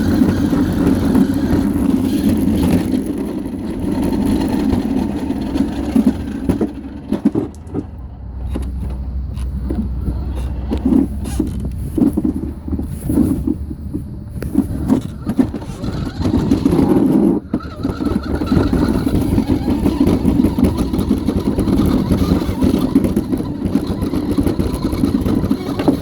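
A small vehicle's motor running as it is driven, steady for the first several seconds, dropping to a quieter stretch with knocks and rattles through the middle, then running again.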